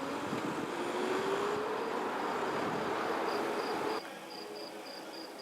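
A passing vehicle: a steady rushing noise with an engine tone rising in pitch, which drops away abruptly about four seconds in. Crickets chirp in a high, even pulse of about three chirps a second throughout.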